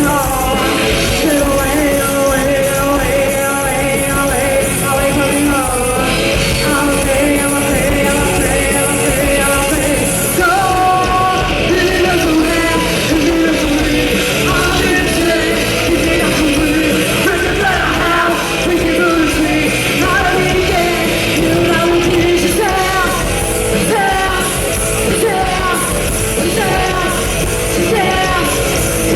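Live rock band playing at full volume, a female lead singer singing over the band in a strong, shouted style.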